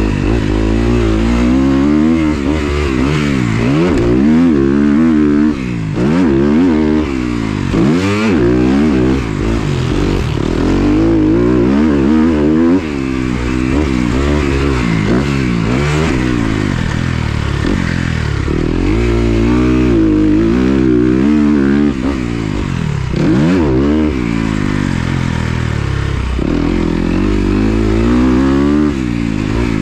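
Kawasaki KX250F motocross bike's single-cylinder four-stroke engine revving up and falling off over and over as it is ridden hard, with a few short dips where the throttle is shut.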